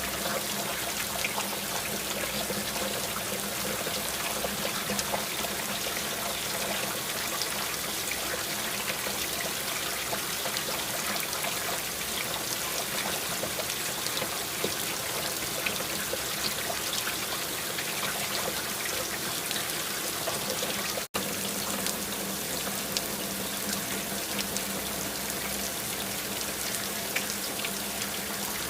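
Steady rain falling, many small drop ticks over an even hiss of water, which cuts out for an instant about 21 seconds in.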